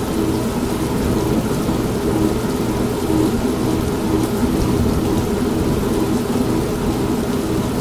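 Steady rain and low rolling thunder mixed with an old manual washing machine running: a continuous dense low rumble with a faint steady hum, without breaks or sudden strikes.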